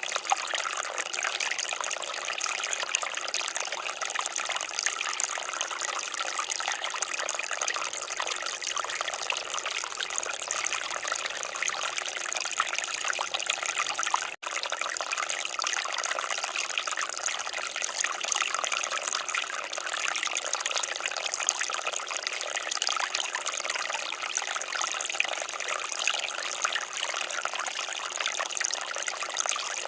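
Water fountain splashing and trickling steadily, a bright, even rush of falling water, with a momentary break about halfway through.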